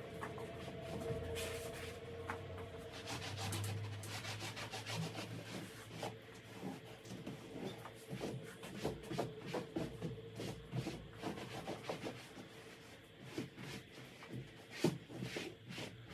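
Hand cleaning: a cloth rubbing and scrubbing a surface, with many short scattered knocks and clicks from handling things, over a faint steady hum.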